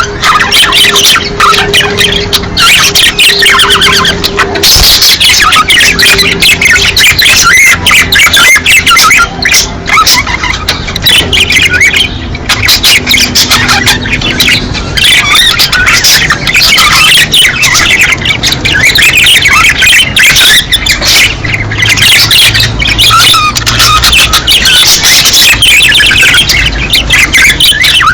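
A flock of budgerigars chattering, warbling and squawking without pause, many birds at once: the busy courtship chatter of budgies in breeding season.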